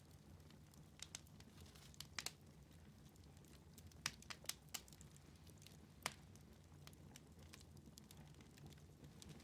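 Wood fire burning in a fireplace, crackling faintly with scattered sharp pops. A quick cluster of pops comes about four seconds in, over a low steady rumble.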